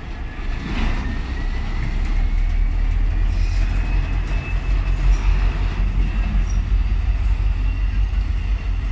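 Freight train of car-carrier wagons rolling past at speed, with a steady low rumble and a thin wheel squeal that rises in pitch over the first few seconds and then holds.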